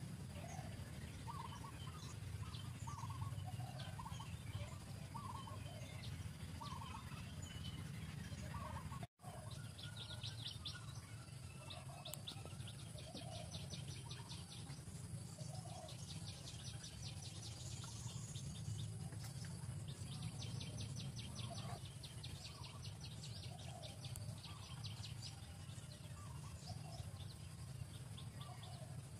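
Outdoor forest ambience of wild birds calling, with short repeated chirps throughout and, from about ten seconds in, fast high trills, over a steady low rumble. The sound drops out for a split second about nine seconds in.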